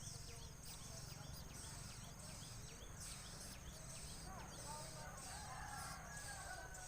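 Small birds chirping with short, quickly repeated high notes over a steady high hiss. About four and a half seconds in, a rooster crows, faint and longer, rising and then holding its pitch.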